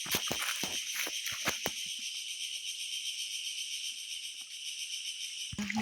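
A steady, high-pitched chorus of insects buzzing in the undergrowth. During the first two seconds it is joined by footsteps, a string of short crunching strokes.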